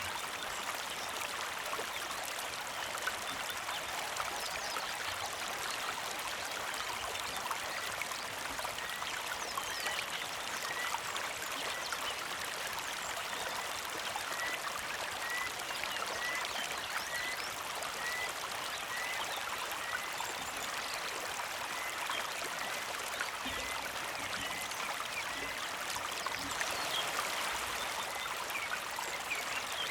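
Small creek flowing and trickling steadily. Through the middle a bird repeats a short high chirp over and over, a little under two a second.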